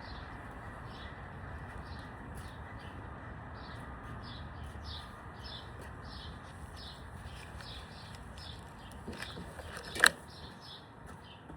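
A bird chirping over and over, about two or three short chirps a second, over a steady outdoor hum. A single sharp snap about ten seconds in.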